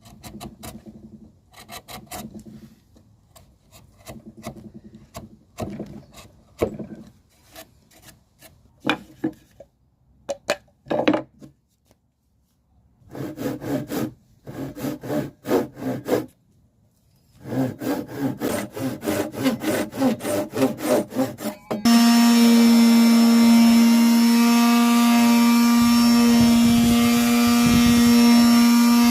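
Hand tools working wood: bursts of quick, rhythmic rasping strokes that stop and start. About three quarters of the way in, a power tool suddenly starts and runs with a steady hum.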